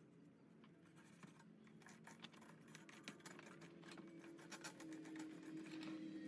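Faint irregular scratching and clicking from hands working on furnace parts, more frequent after the first second, over a steady low hum that grows louder near the end.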